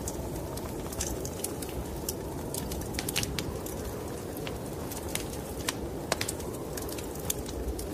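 Wood fire crackling in a fireplace, irregular sharp pops and snaps over a steady low rush of snowstorm wind.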